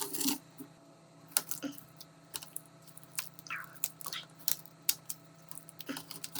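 Small repair tools clicking and tapping against a smartphone's body and parts in irregular strokes, with a short scrape about three and a half seconds in and a faint steady hum underneath.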